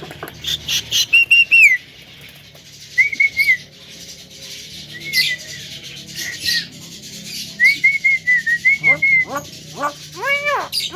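Javan myna (jalak kebo) calling: short whistled notes, clicks and rasping chatter, then a quick run of arched, nasal calls near the end.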